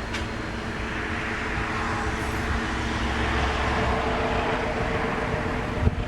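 SM42 diesel shunting locomotive running under power as it hauls a train past, a steady engine drone with rumbling wheel and rail noise that swells toward the middle.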